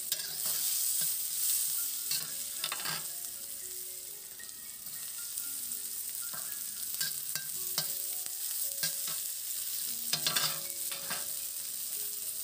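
Sliced garlic, shallots and red chilli sizzling in oil in a hot iron wok, with a steady high hiss. A metal spatula scrapes and clatters against the pan every few seconds as the spices are stirred.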